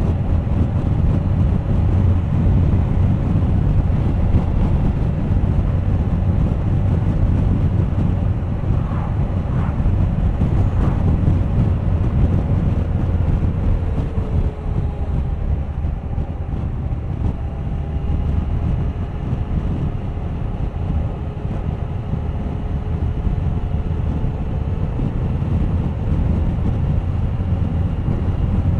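Wind buffeting the camera microphone on a moving Suzuki GSX1250FA motorcycle, with the inline-four engine's note faintly underneath. The engine note falls in pitch about halfway through.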